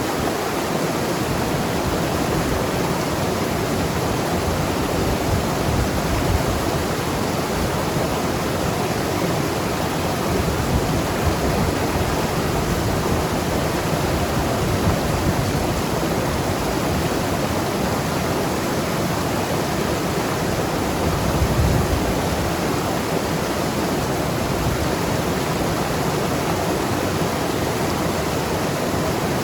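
Mountain river rushing and gurgling over rocks, a steady full wash of water noise with small swells, one slightly stronger about 21 seconds in.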